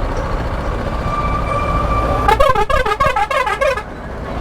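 A vehicle's musical horn: a held tone, then a quick run of notes at about five a second, like a short tune, over steady road and engine noise.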